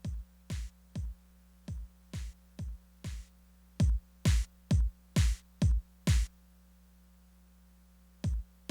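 Korg Electribe Sampler ES2 playing drum-machine hits, each a low kick thump with a hiss on top, about two a second. They get louder about four seconds in and stop after about six seconds, then a single hit sounds near the end.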